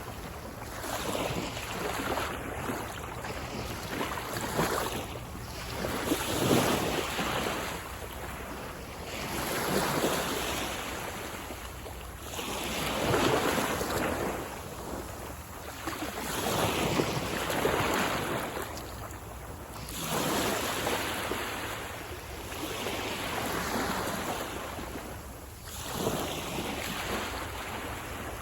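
Sea waves breaking and washing up a beach, surging and fading every three to four seconds, with some wind on the microphone.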